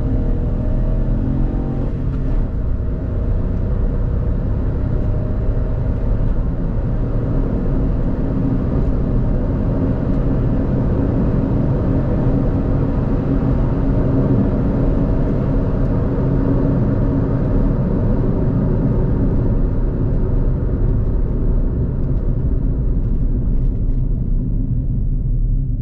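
A Kia Picanto GT's 1.0-litre turbo three-cylinder engine and its road noise as the car is driven at a steady speed, a constant low rumble. In the first couple of seconds the engine note glides as the car settles from acceleration into the cruise.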